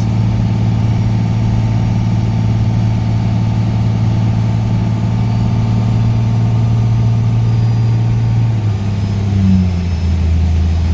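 12-valve Cummins straight-six turbo diesel running steadily, then its note drops lower about nine seconds in as the engine speed falls.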